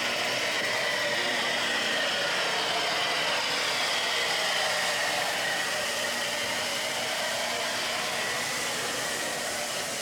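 Steam locomotive letting off steam: a steady, loud hiss.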